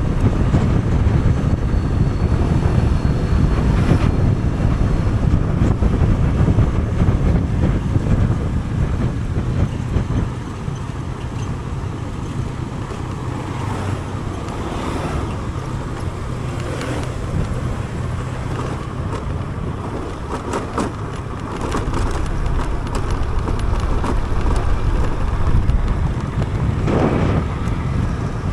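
A vehicle on the move, its engine running with steady road and wind noise on the microphone, a little quieter for a stretch in the middle.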